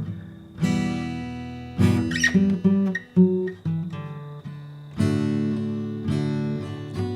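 Acoustic guitar music: strummed chords ringing out and dying away, with a short run of single plucked notes about two to four seconds in.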